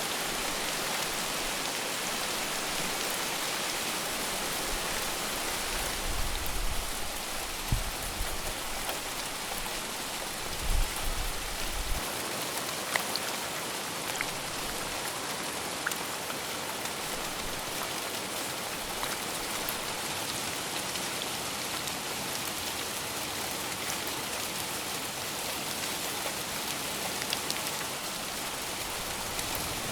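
Steady rain falling, an even hiss of drops hitting a surface. A few low thumps come between about six and twelve seconds in.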